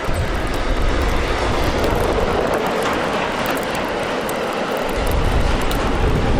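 A steady, loud rumble of a large passing vehicle, a dubbed-in sound effect, with faint clicks over it.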